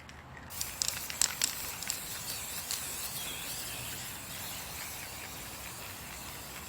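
Aerosol spray paint can spraying with a steady hiss that starts about half a second in, with a few light clicks near the start.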